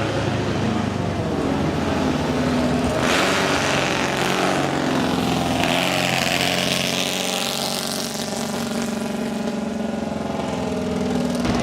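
Vintage race car engines running, with one car passing, its sound rising and then falling in pitch about halfway through.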